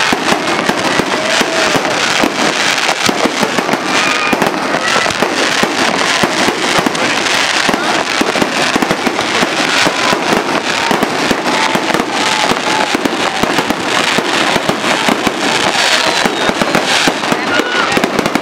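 Fireworks display: a continuous, rapid barrage of shell bursts and crackling, with no break.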